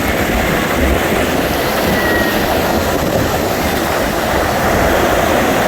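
Loud, steady rushing noise of storm wind and water, with a ragged low rumble of wind buffeting the microphone.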